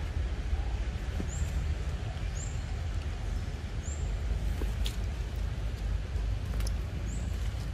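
A small bird calling four times, a short high chirp each time spaced one to three seconds apart, over a steady low rumble.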